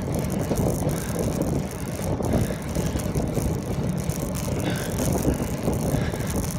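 Riding noise from a moving bicycle: wind buffeting the microphone with tyre and road noise, a steady low rushing that rises and falls a little.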